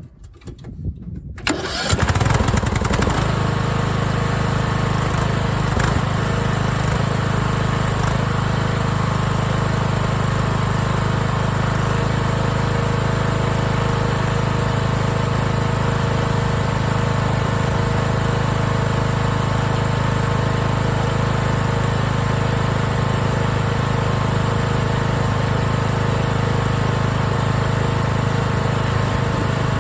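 Craftsman LT1000 lawn tractor engine starting about a second and a half in, then running steadily at a constant speed.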